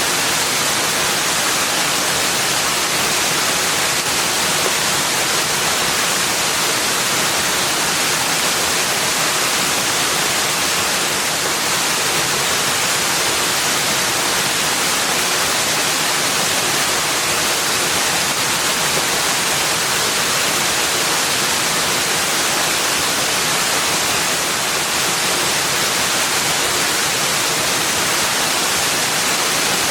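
Steady, unbroken rushing hiss, even and unchanging throughout, heavier in the treble than the bass, with no calls or separate events in it.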